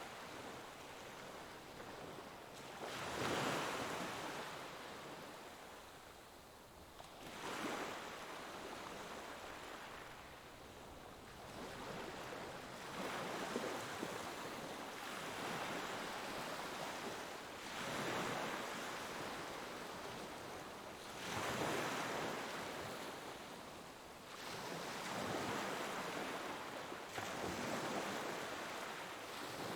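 Ocean waves breaking on a shore, each one swelling and washing out, about every four seconds, over a steady background of surf.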